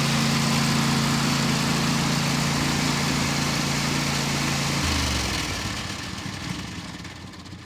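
John Deere 155C lawn tractor engine running steadily, then shut off about five seconds in, the sound dying away.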